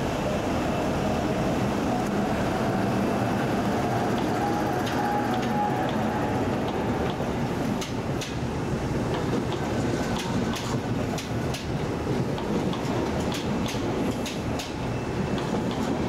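Class 90 electric locomotive and InterCity coaches moving along the platform with a steady rumble. In the first half a whine slowly falls in pitch; from about halfway the wheels click over the rail joints.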